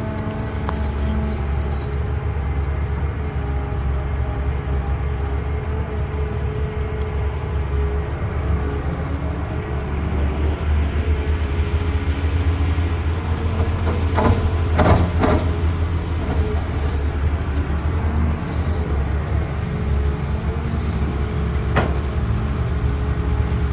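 Heavy diesel construction machinery running steadily with a deep drone. A few sharp knocks come close together about two-thirds of the way through, and one more near the end.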